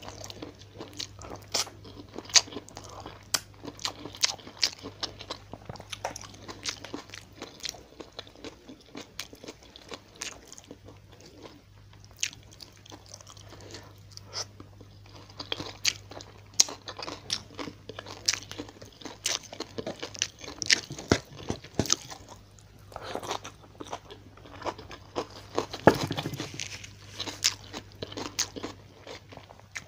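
Close-miked chewing of fried tilapia and rice eaten by hand: many small, irregular crunches and wet mouth smacks, with a few louder bites.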